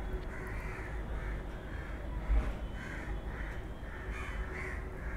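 Harsh cawing bird calls repeating about twice a second, with a single short knock about halfway through.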